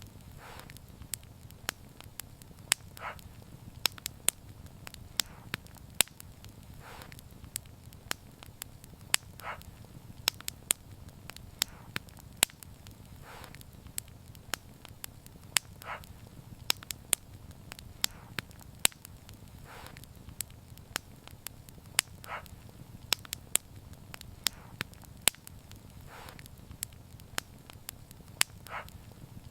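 Wood fire crackling: irregular sharp pops and snaps over a steady low rumble of the flames, with a softer hiss every few seconds.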